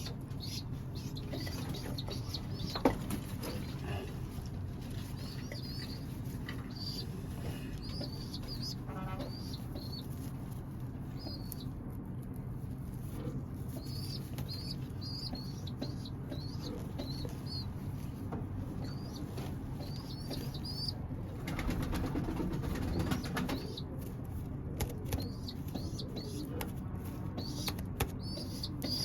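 Pigeons in a loft: short high chirps recurring throughout, a sharp tap about three seconds in, and a louder burst of wing flapping for about two seconds some twenty seconds in.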